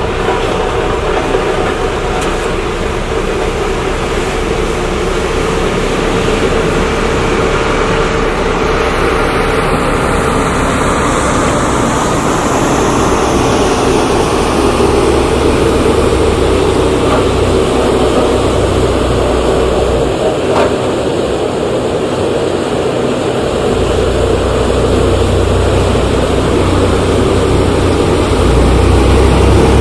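Heavy diesel engines of road-construction machinery running steadily, with a constant hum; the deep rumble drops out briefly a little past the middle and comes back louder near the end.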